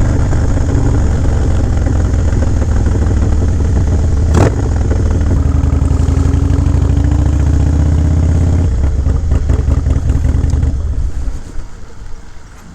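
Harley-Davidson Low Rider S V-twin with an aftermarket Fab 28 exhaust running loud and steady, with one sharp click about four seconds in. The engine note changes about nine seconds in and then cuts out about eleven seconds in.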